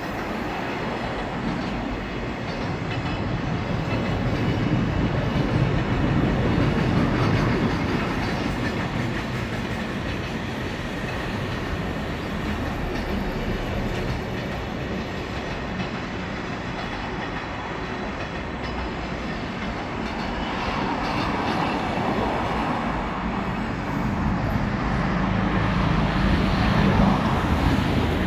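Freight train of container wagons and a few chemical tank cars, hauled by an EF66 electric locomotive, rolling past with a steady rumble of wheels on rails. It swells louder twice, once several seconds in and again near the end.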